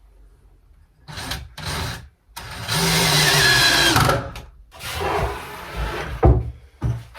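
Power drill/driver driving screws into timber frame pieces. There are short bursts, then one long run whose pitch drops as the screw bites, then more short bursts and a sharp knock.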